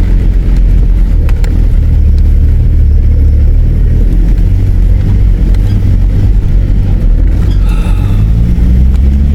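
Four-wheel-drive vehicle's engine droning steadily while driving on a dirt track, heard from inside the cabin with rumbling road noise; the engine pitch rises a little near the end.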